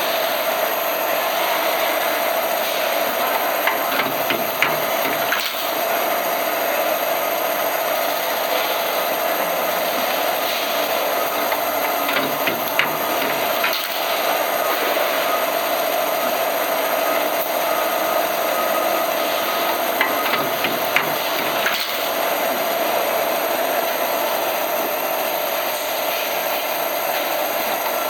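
Capillary-tube cutting machine running steadily with a constant hum, and scattered sharp clicks throughout.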